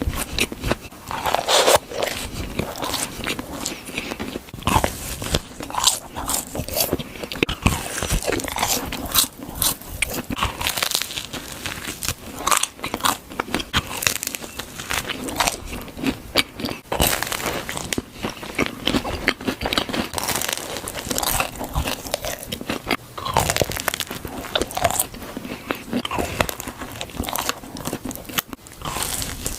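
Close-miked eating: crunchy bites and chewing, with many irregular sharp crunches and crackles.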